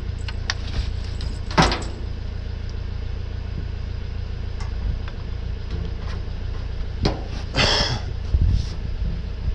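Vehicle engine running with a steady low rumble, with scattered knocks and clunks and a short hiss about eight seconds in.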